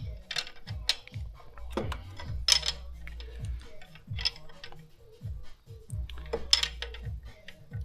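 Irregular sharp metallic clicks and clinks of hand tools as a small bolt is slowly threaded in on the engine, over background music with a deep, repeating bass.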